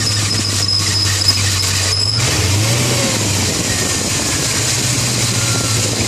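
BMW M60B40 4.0-litre V8 idling steadily, its engine note rising briefly about two seconds in, with a faint wavering squeal from the water pump bearing, which is failing.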